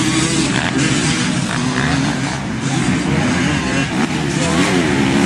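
Motocross bike engines revving, their pitch rising and falling as the throttle opens and closes.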